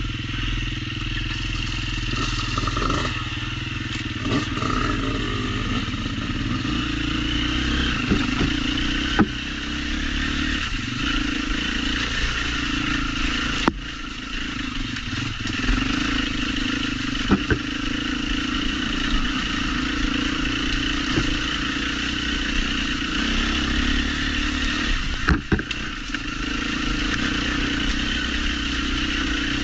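Off-road trail motorcycle engine running steadily as it is ridden, with a few sharp knocks and some clatter from the bike going over rough ground.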